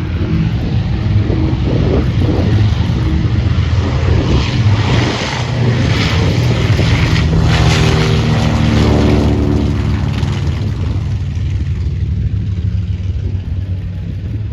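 Aircraft engines passing by loudly. The sound swells about four seconds in, and its pitch slides down as the aircraft goes past, then fades slightly near the end.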